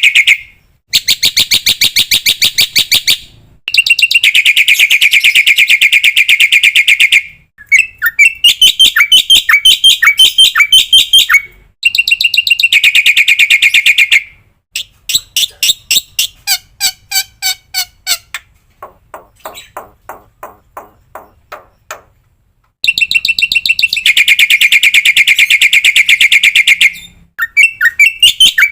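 Black-winged myna (jalak putih) song recording: loud, very rapid trilled and chattering phrases, each a few seconds long, separated by short pauses, with a slower, lower-pitched run of notes in the middle.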